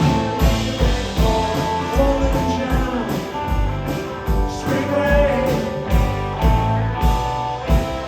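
Live rock band playing a song: drums keeping a steady beat about twice a second under guitars and singing.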